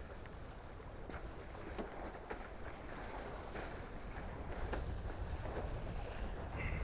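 Water rushing and splashing past the hulls of a Tornado racing catamaran under sail, with wind buffeting the microphone; it grows louder about halfway through.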